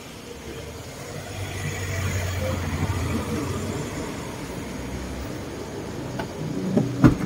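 Motor vehicle engine hum that swells from about a second in and fades again after about five seconds, with a sharp knock near the end.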